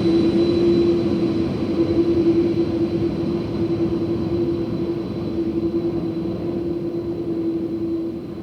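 Aircraft engines heard from the ground as a steady rumble with a held hum, slowly easing as the aircraft moves away.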